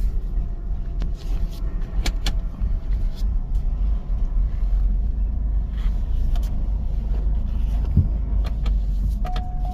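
Chevy Cobalt SS running, a steady low rumble heard from inside the cabin, with a couple of sharp clicks about two seconds in and a steady high tone starting near the end. The owner says the engine is running rough and suspects the crank position sensor still needs reprogramming.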